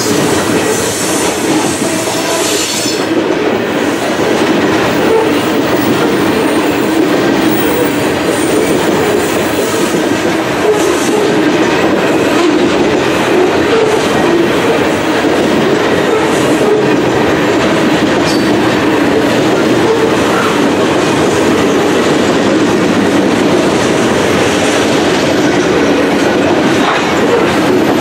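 Covered hopper cars of a freight grain train rolling past close by: a steady rumble and clatter of steel wheels on the rails.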